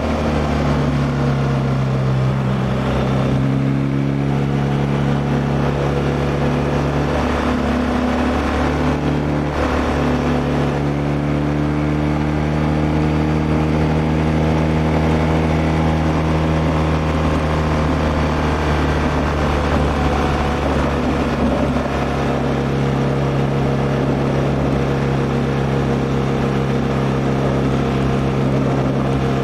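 BMW R1200R LC's flat-twin boxer engine running as the motorcycle rides along. The engine note shifts pitch a few times in the first ten seconds, then slowly rises and falls.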